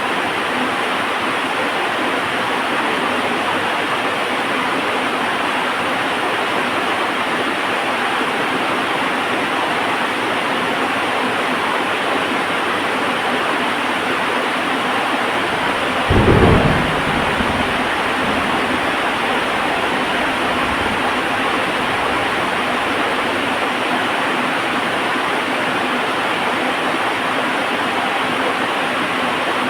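Heavy rain falling steadily, with one sudden clap of thunder about halfway through that rumbles away over a second or two.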